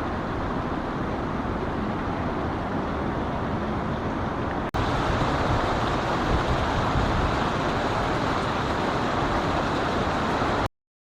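Steady outdoor background rumble and hiss, with no distinct events; it drops out for an instant about halfway through where the footage cuts, and stops abruptly near the end.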